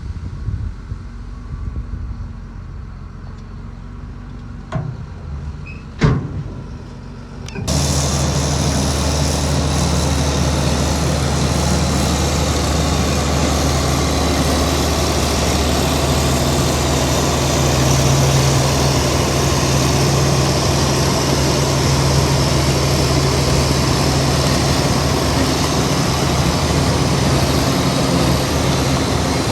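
Heavy diesel engine of earthmoving machinery running loud and steady at constant speed, cutting in abruptly about eight seconds in. Before that there is only a low rumble with a sharp knock about six seconds in.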